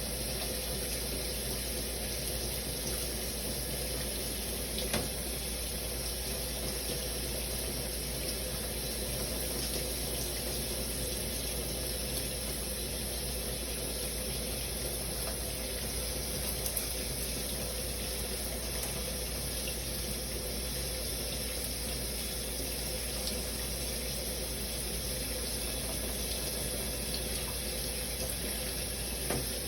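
Shower running steadily, water spraying and splashing in an even hiss, with a couple of faint drips or taps.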